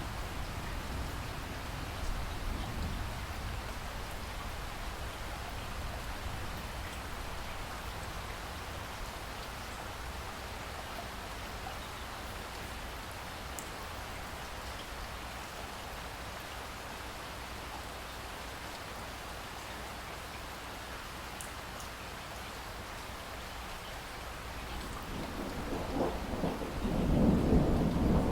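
Steady rain falling, with low thunder rumbling softly at first and then building into a loud roll of thunder near the end.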